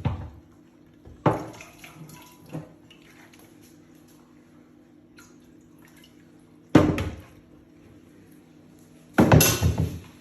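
Water splashing and spattering in several sudden bursts: one at the start, one just over a second in, a sharp one near seven seconds and a longer run near the end. A steady low hum lies underneath.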